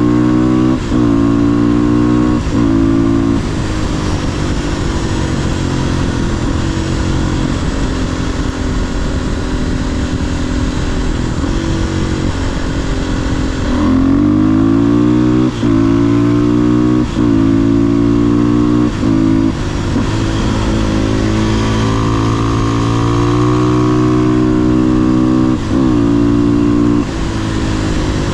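500cc single-cylinder supermoto engine pulling hard up through the gears, its pitch climbing and then dropping sharply at each upshift with a brief dip in loudness. In the middle it holds a steady pitch for several seconds, then runs up through the gears again about halfway through.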